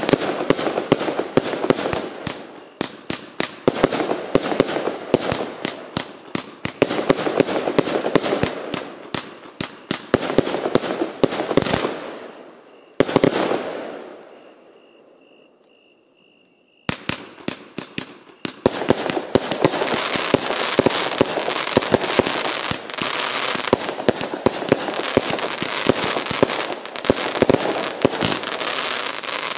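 Firework cake of 25 and 30 mm shots firing in rapid succession, a dense run of launch thumps, shell breaks and crackle. About halfway through it dies away for a few seconds, then starts again with more crackle.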